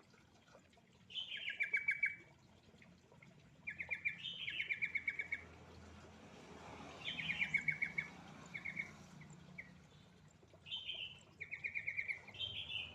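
Yellow-vented bulbul (trucuk) song played as a lure recording to prompt a reluctant bird to sing. It comes in short phrases, each a falling note and then a quick chattering run of notes, repeated about every three seconds.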